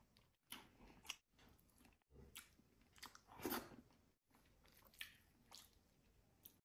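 Faint close-up chewing and wet mouth smacks of a person eating boiled fish, greens and rice by hand, coming in short separate bits about a second apart, the loudest about three and a half seconds in.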